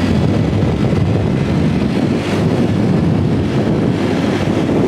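Steady wind buffeting the microphone, a loud low rumble with no clear engine tone.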